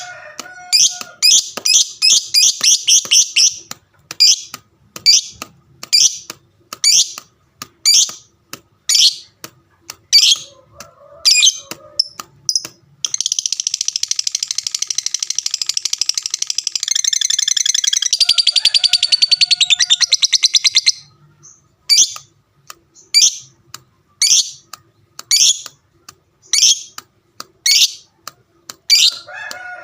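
Lovebird calling: shrill chirps about once a second, a quick run of calls near the start, and in the middle one long, unbroken rapid chattering trill ('ngekek') lasting about eight seconds before the single chirps resume.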